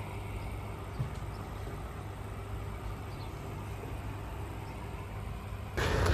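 Steady outdoor background noise with a constant low hum and a few faint high chirps. Near the end it gives way to a louder, rushing noise.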